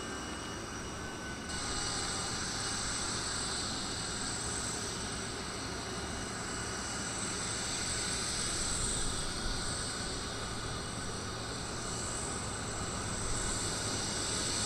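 Jet aircraft engines running steadily: a broad rush with a thin high whine on top, getting louder about a second and a half in.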